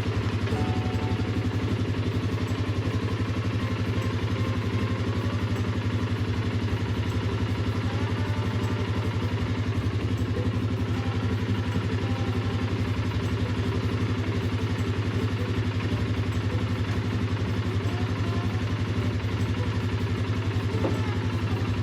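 Polaris Sportsman 570 ATV's single-cylinder engine idling steadily.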